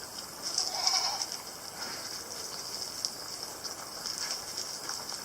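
A sheep's short, faint bleat about a second in, over a quiet steady hiss.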